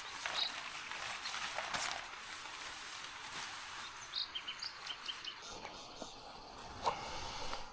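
Small birds chirping in short, high notes: a few single chirps and a quick run of them midway, over a steady outdoor hiss. A single sharp click near the end.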